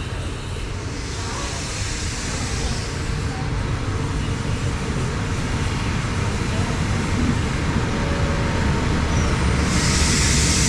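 Steady low rumble of a large passing vehicle, slowly growing louder, with a spell of high hiss about a second in and again near the end.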